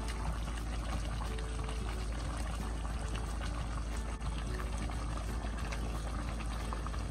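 Liquid in a cooking pot bubbling steadily with a dense crackle, under soft background music.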